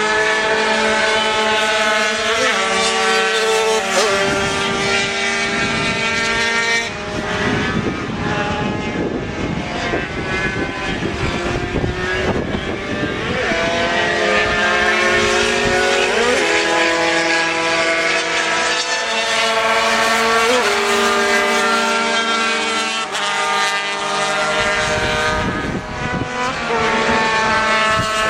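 Racing motorcycles at full throttle, several engines overlapping, each rising in pitch and dropping back at gear changes as the bikes pass.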